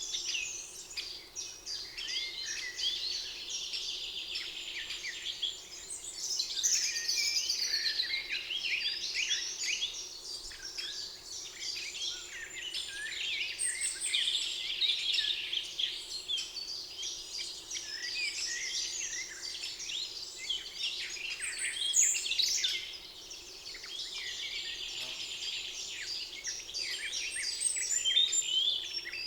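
Several songbirds singing at once in a spring forest, a dense chorus of overlapping chirps, whistles and rapid trills.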